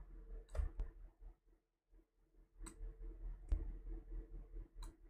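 Several faint, scattered computer mouse clicks over quiet room tone with a low steady hum.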